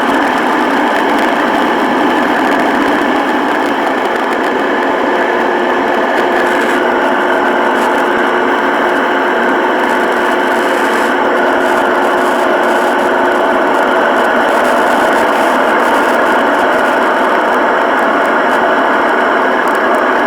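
Steady engine and air noise inside the cabin of an airliner in flight.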